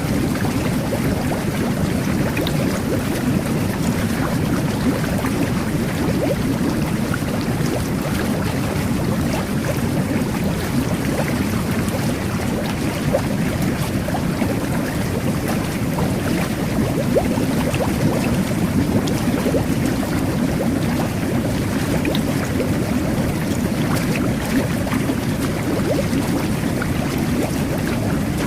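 Jet bath (whirlpool tub) running: water jets churning and bubbling steadily, a deep rumbling rush with small bubble pops throughout.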